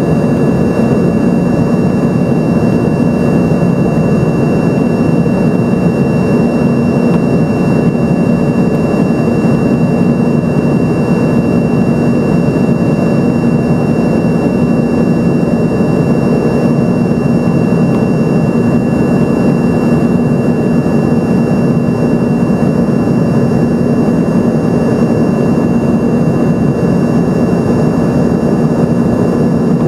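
Steady jet engine noise heard inside the cabin of an Embraer ERJ-145, from its turbofan engines running at constant power: a dense, unchanging rush with a steady low hum and a thin high whine over it.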